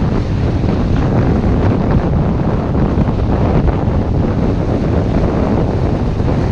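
Steady, loud wind buffeting the microphone on a sailboat under way in a fresh breeze.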